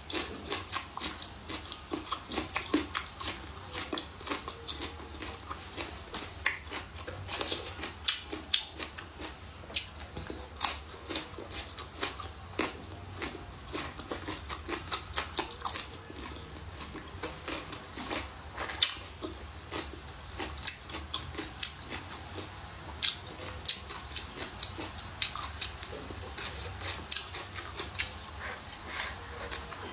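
A person biting and chewing blistered green peppers and braised pork trotter, with many short, irregular wet crunches and mouth clicks.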